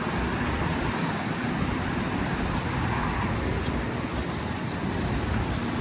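Steady city street noise with passing road traffic.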